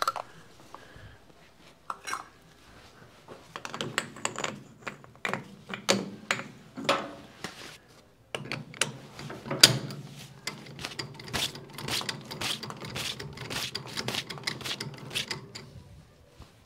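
Metal tools and parts clinking and clattering as they are handled, with a sharp clack a little under ten seconds in. A steady low hum comes in about eight seconds in.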